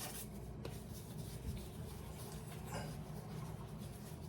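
Hands rolling a ball of bread dough on parchment paper: faint, soft rubbing and rustling, over a low steady hum.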